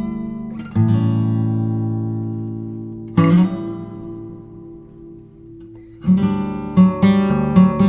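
Background music: acoustic guitar strumming chords that ring out and fade, then a quicker run of strums near the end.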